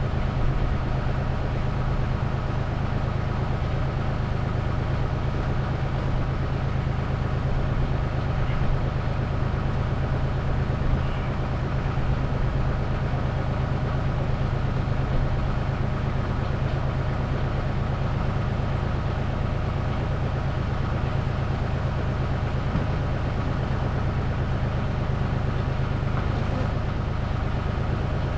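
A steady low hum of even pitch and level, engine-like, with no distinct knocks or changes.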